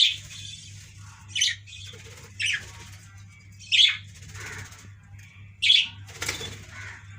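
Budgerigars giving six sharp, harsh calls spread over several seconds, with softer chirping chatter between them, over a steady low hum.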